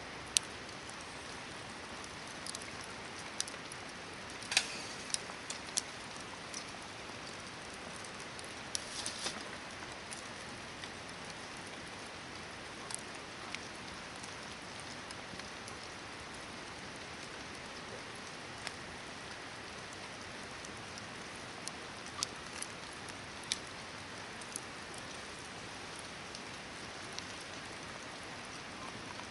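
Hardwood campfire burning: a steady hiss with irregular sharp crackles and pops. There are louder clusters of pops about four to five seconds in and again around nine seconds.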